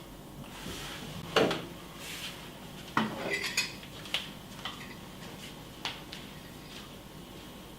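A spoon clinking against a bowl in a series of sharp clinks: one loud clink a little over a second in, a quick cluster around three seconds, then a few lighter taps.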